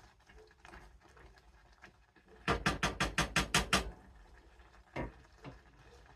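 A spoon stirring oatmeal in a pot: a quick, even run of about nine strokes of the spoon against the pot, then a single knock about a second later.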